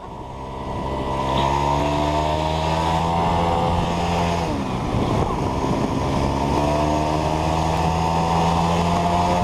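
Small scooter engine under way, building revs over the first second or so, then running steadily. About halfway through the pitch dips and climbs back, as the throttle is eased off and opened again.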